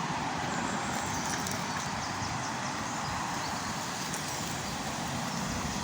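Steady rushing of water from a small river waterfall.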